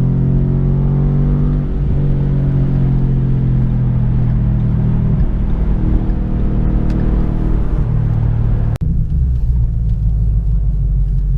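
2015 Ford Mustang GT's 5.0 V8 running through an MBRP race cat-back exhaust, a steady deep exhaust drone that eases off about five seconds in and comes back. About nine seconds in it cuts off sharply to a duller, lower rumble.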